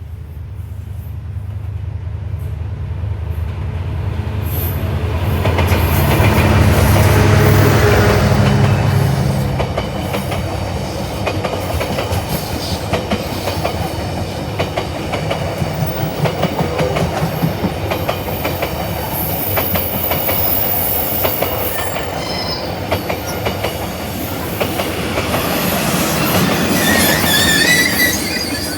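D19E diesel-electric locomotive passing close by, its diesel engine loudest about seven seconds in and fading, followed by the passenger carriages rolling past with rhythmic wheel clatter over the rail joints. Wheels squeal near the end.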